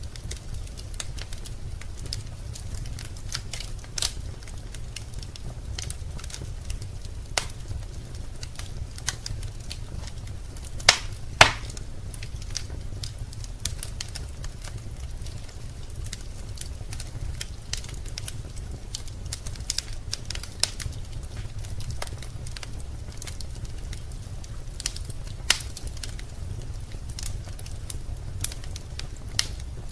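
Wood fire burning in a fireplace, crackling and popping irregularly over a steady low rumble, with two louder pops about eleven seconds in.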